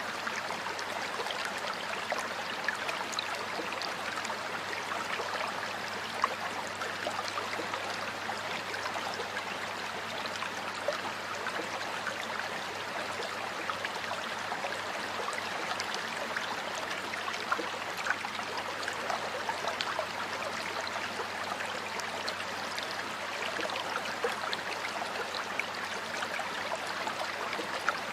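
Water flowing in a stream or river: a steady rushing with many small splashes and gurgles running through it.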